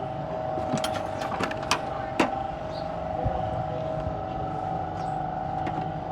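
A steady mechanical hum with two held tones, broken by a handful of sharp metallic knocks and clinks about one to two seconds in, the loudest near two seconds, as of tools on metal during car suspension work.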